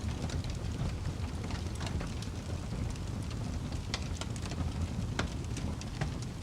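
Campfire burning: a steady low rush of flames with frequent irregular sharp crackles and pops from the burning wood.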